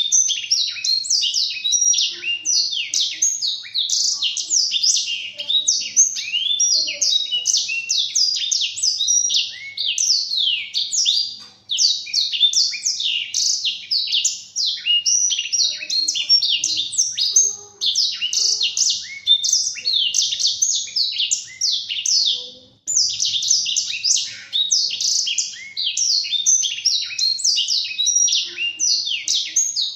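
Black-throated canary (blackthroat) singing a long, fast, unbroken twittering song of rapid high notes, pausing briefly twice.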